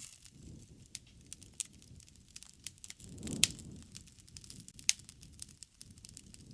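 Wood fire crackling: irregular sharp pops and snaps over a soft low rumble of burning. About three seconds in the fire swells louder with one loud pop, and another sharp pop comes about a second and a half later.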